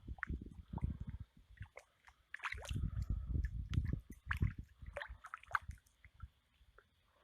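Irregular wet squishing and sloshing with scattered sharp clicks and bumps, from a just-landed carp being handled before release.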